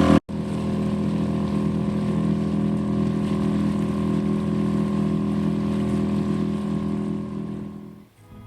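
Small outboard motor on a dinghy running steadily, fading out near the end.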